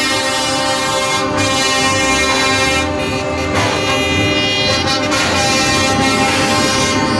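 Truck air horn held in one long, steady multi-tone blast, over the low rumble of a truck engine.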